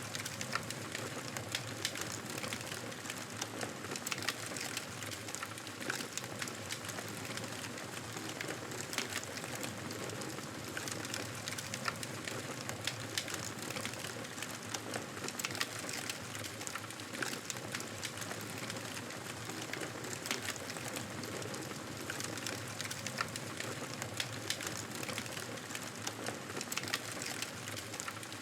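A fire crackling steadily: many small, irregular sharp pops and snaps over a soft, even hiss.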